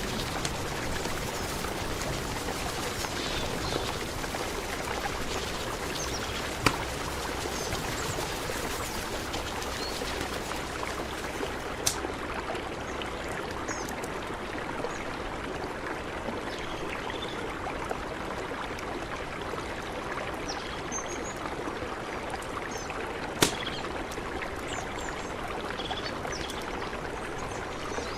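Mountain river flowing steadily, an even rush of water, with a few short sharp clicks standing out above it, the loudest near the end.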